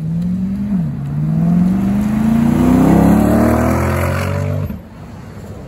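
C8 Corvette's V8 accelerating hard on a pull: the revs climb, fall once at an upshift just under a second in, then climb steadily through the next gear. The sound drops away abruptly about four and a half seconds in.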